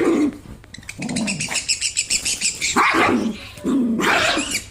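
A dog barking about three times, with parrots chirping in a quick high run between the barks.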